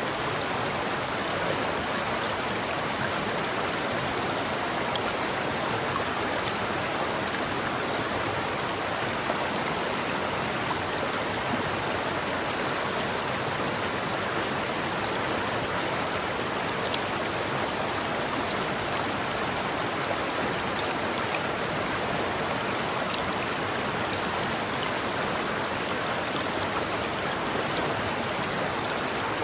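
River water flowing over rocks: a steady, even rush with no pauses or changes.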